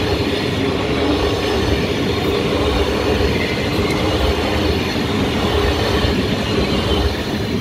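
Electric suburban passenger train passing close by through a level crossing: a steady, loud run of wheels on rails and running gear from the carriages going past.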